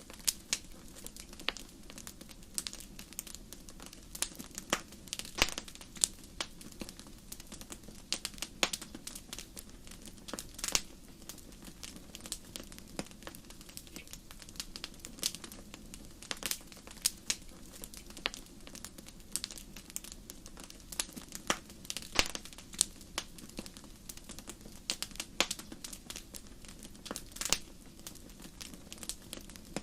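Wood fire in a fireplace crackling: irregular sharp pops and snaps, several a second, over a steady low rush of the flames.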